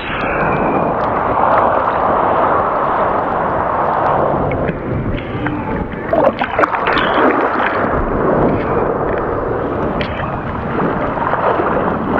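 Breaking shorebreak waves churning and rushing around a GoPro held in the surf, a steady loud wash of turbulent water with a few short knocks partway through.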